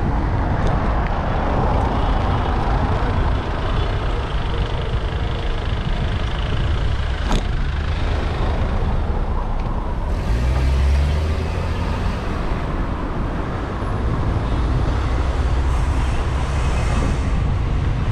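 Street traffic of cars and trucks passing a moving bicycle, over a steady low rumble of wind on the microphone. A sharp click comes about seven seconds in, and a vehicle engine passes close about ten seconds in.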